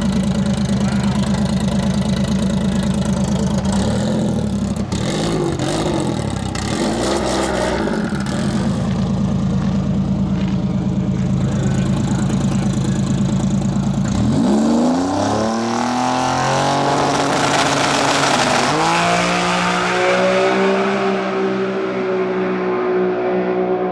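Drag racing car engine running steadily, blipped up and down a few times, then launching about 14 s in: the engine note climbs sharply as the car accelerates, with a jump in pitch near 19 s before it holds high.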